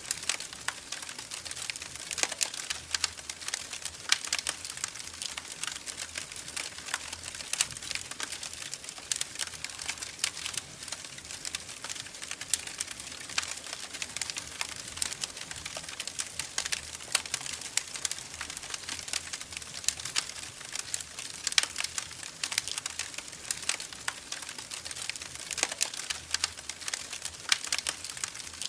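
Wood fire crackling in a fireplace: a dense, irregular run of small pops and snaps, with a few sharper, louder pops now and then.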